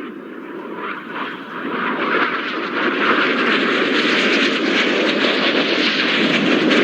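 Jet noise from two BAE Hawk T1 trainers with Rolls-Royce Adour turbofans flying low past, a steady rushing roar that grows louder as they approach.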